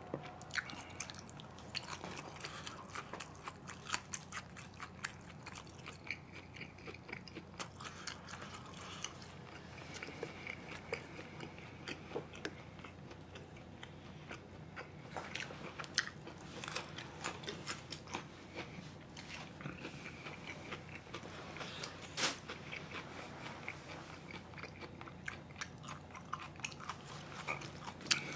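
A person chewing and biting food close to the microphone, with crunching and many short, sharp clicks.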